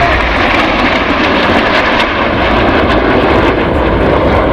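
Jet engine noise from Northrop NF-5 fighter jets of an aerobatic team flying their display, a loud steady rush.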